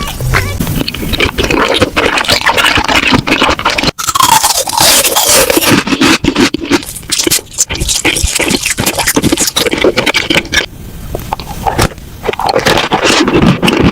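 Loud, close-miked crunching and scraping of crunchy food being bitten and chewed, a dense run of crackles with a brief break about four seconds in.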